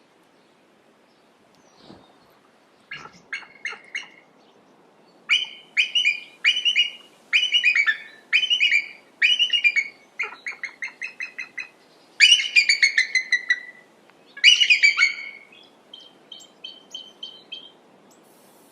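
Eagle calling: repeated bursts of high, rapid piping chatter that begin about three seconds in and grow fainter near the end.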